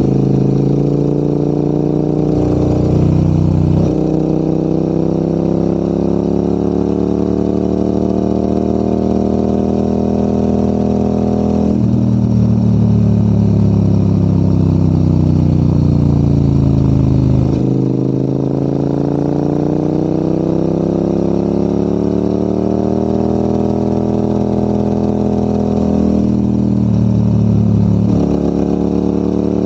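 Motorcycle engine under way, its pitch climbing steadily through the revs and falling again several times, with abrupt shifts in pitch as the rider changes gear or eases off the throttle.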